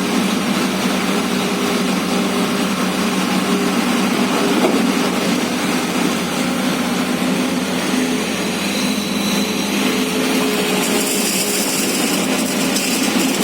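Excavator engine running steadily while it works loading sand, with a hiss added in the last couple of seconds.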